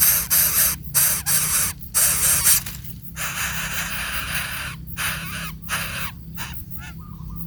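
Baby bird giving harsh hissing calls in repeated bursts broken by short pauses, softer and more continuous from about three seconds in.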